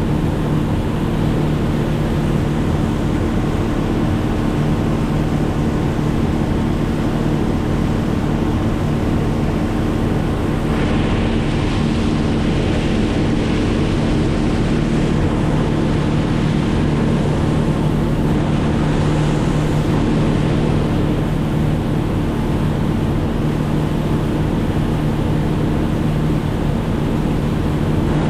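An engine running at a steady speed under a constant rushing noise, which grows stronger about eleven seconds in.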